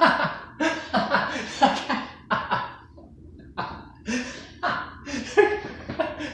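A man laughing in a string of short bursts with brief pauses between them.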